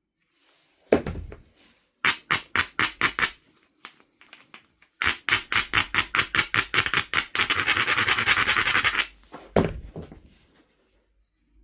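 Knife River flint biface being worked by a flintknapper: rapid scraping strokes along its edge, about six a second, running together into dense scraping near the end, the way an edge is abraded to prepare striking platforms. A sharp knock comes about a second in and another near the end.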